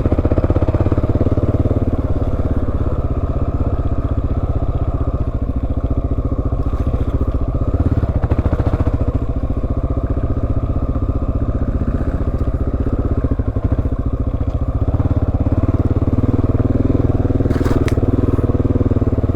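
Dual-sport motorcycle engine running steadily while the bike is ridden.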